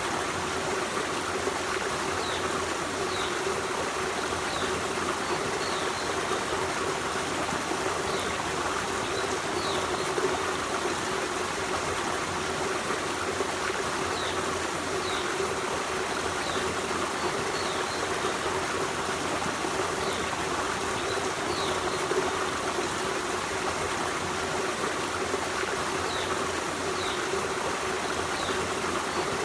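Forest stream running steadily over rocks, a continuous rush and trickle of water. Short high chirps of a small bird come now and then over it.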